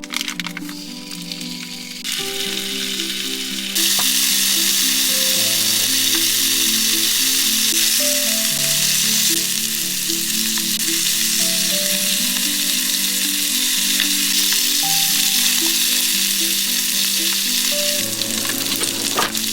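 Food sizzling in a hot frying pan: a dense, steady sizzle that starts about two seconds in, gets much louder soon after and eases off near the end, over background music.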